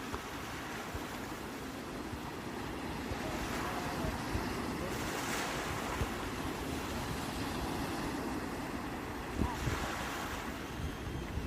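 Sea waves breaking and surf washing up the shore in a steady rush. Louder washes come about five seconds in and again near ten seconds, and wind rumbles on the microphone underneath.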